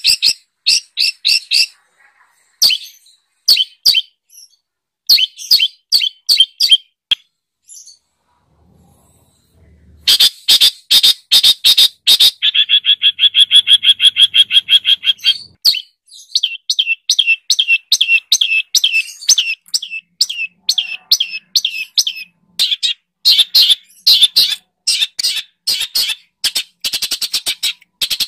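A songbird singing in quick runs of sharp, high chirps, with a fast even trill in the middle and a short pause about a third of the way in: recorded masteran song of the kind played to captive long-tailed shrikes (cendet) to teach them new phrases.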